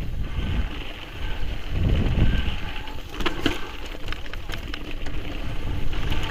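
Mountain bike riding down a rocky trail: wind buffeting the microphone over the rumble of tyres on stones, with a few sharp clicks and knocks from the bike a little over three seconds in.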